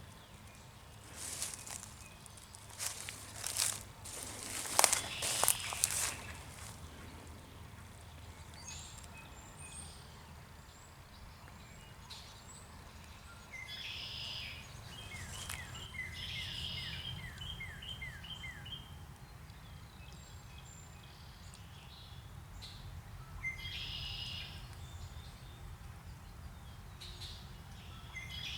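Songbirds calling in wet woodland: scattered chirps, with a quick run of about seven short down-slurred notes near the middle. A few sharp rustles and knocks come in the first few seconds, over a steady low background rumble.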